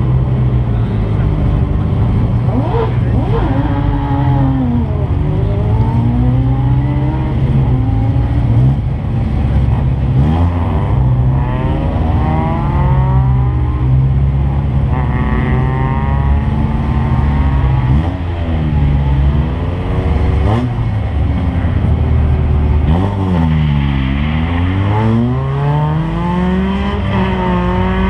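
Several car engines revving hard and passing by. Their pitch climbs and drops again and again through gear changes, with a steady low engine drone underneath.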